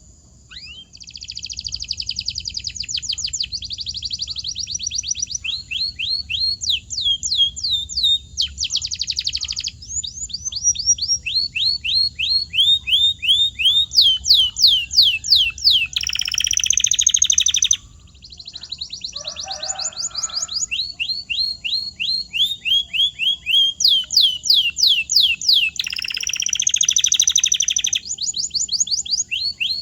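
Canary singing: fast trills and series of rapidly repeated falling whistled notes, changing from one rolled phrase to the next.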